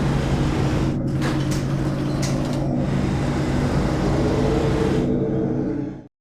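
Steady low engine-like hum, as in a cartoon vehicle sound effect, with a few short swishes about a second and two seconds in. It cuts off suddenly near the end.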